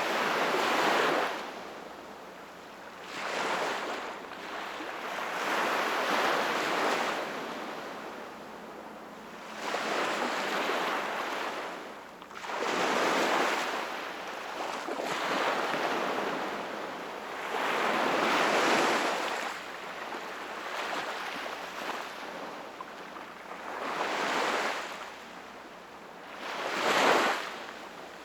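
Sea waves washing onto the shore, each one swelling and fading away, about eight surges, the sharpest one near the end.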